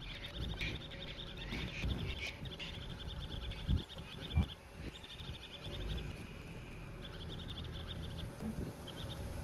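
A bird calling in four quick, rapidly repeated high trills, over low wind rumble on the microphone. Two short low thumps come a little past the middle.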